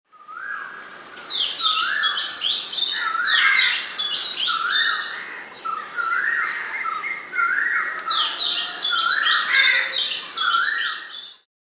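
Bird song: a phrase of rising whistled notes repeated over and over, with sharper higher notes above, stopping abruptly near the end.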